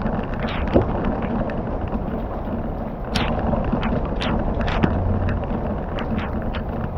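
Campfire crackling, with sharp irregular pops over a steady rushing noise.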